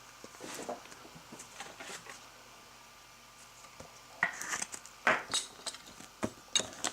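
Trading cards being handled: faint taps at first, then a cluster of short rustles and card slides from about four seconds in.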